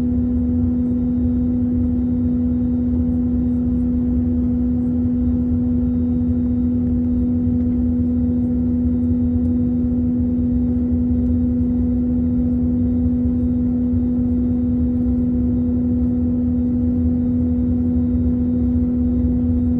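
Steady drone inside the cabin of an Airbus A321 in flight: engine and airflow noise with a constant low hum and rumble, unchanging throughout.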